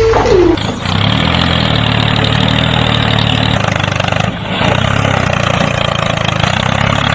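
Mini tractor's engine running steadily with a rough idling sound, after a short falling tone at the very start. It cuts off abruptly at the end.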